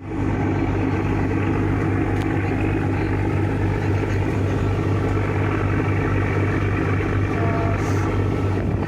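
Steady low drone of a passenger ship's engine, an even hum that holds unchanged throughout.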